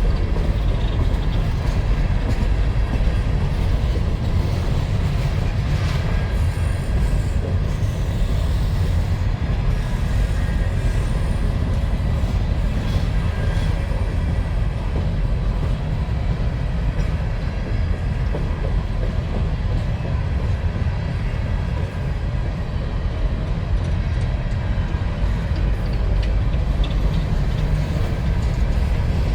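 Freight train of empty mine cars rolling past, wheels on rail making a steady low rumble.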